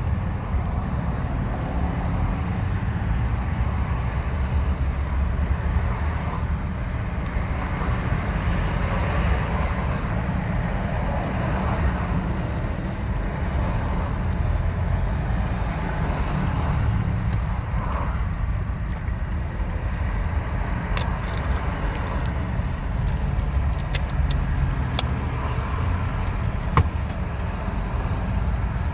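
Steady road-vehicle noise: a continuous low rumble with tyre and traffic hiss, and a few sharp clicks in the second half, one louder near the end.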